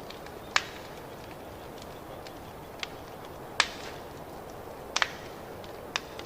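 Wood fire in a fireplace crackling: a steady soft hiss with sharp single pops every second or so, one of them a quick double pop.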